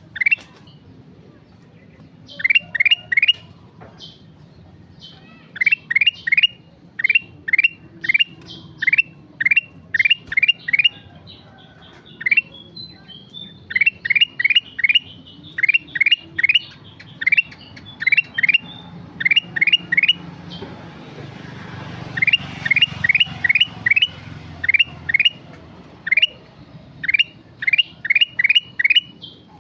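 Kutilang emas bulbul calling persistently: short, sharply rising whistled notes, mostly in quick runs of two to four, repeated over and over. A low steady rumble sits underneath, and a hiss swells up briefly past the middle.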